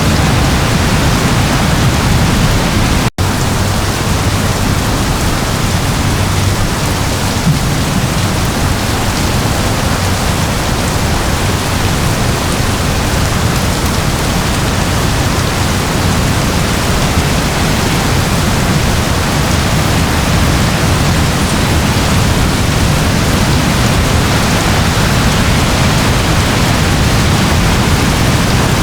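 Steady rain, a dense even hiss with no separate drops standing out. The sound cuts out for an instant about three seconds in, then carries on unchanged.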